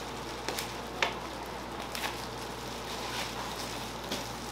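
Steady sizzle of food frying, with a few short sharp clicks of a utensil, the loudest about a second in.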